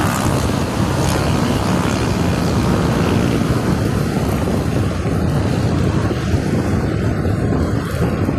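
Steady loud rumble of wind buffeting the microphone while riding a bicycle.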